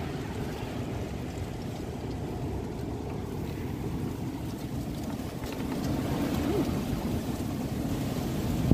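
Strong storm wind blowing and buffeting the microphone: a steady low rumble that grows a little louder in the second half, ending in a brief loud blast.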